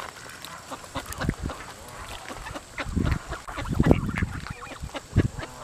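Geese honking and calling in a crowd over scattered feed, with short scattered calls, and louder thumps and rustles about halfway through and again near the end.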